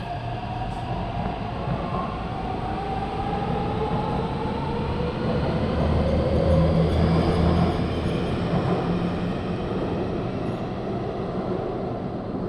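Taipei Metro C371 electric train pulling out of a station. Its motor whine rises in pitch as it gathers speed over steady rail running noise, which is loudest in the middle.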